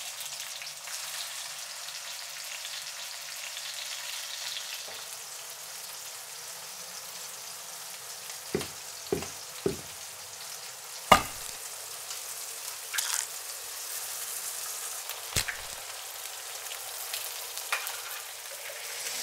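Tomato slices and then eggs frying in oil in frying pans: a steady sizzle, with a few short sharp clicks and knocks in the middle, one louder than the others.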